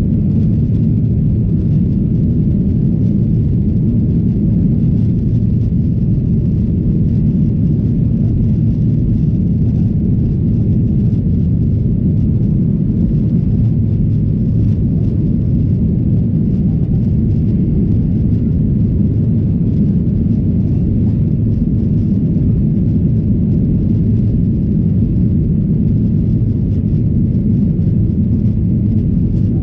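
Cabin noise inside a Boeing 737-800 airliner: its CFM56-7B engines and the airflow make a steady, loud low rumble that stays even throughout.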